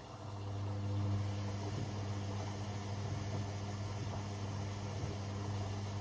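AEG Lavamat 6610 washing machine: a motor starts up a moment in with a steady low hum, swelling over about a second and then holding even.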